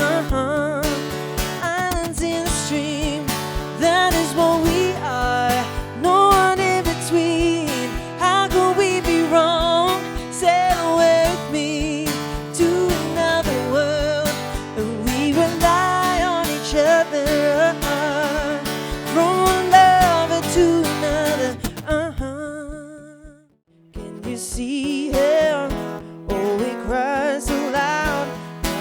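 A woman singing over strummed acoustic guitar with a steady beat. The music drops out suddenly about 23 seconds in, then starts again.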